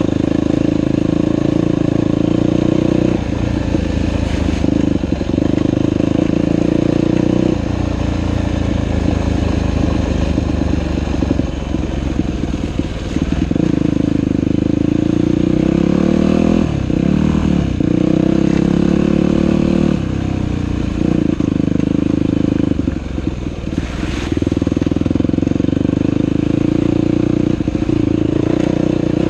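Dirt bike engine running under way, its revs rising and falling with the throttle, with several brief dips and pitch glides through the ride.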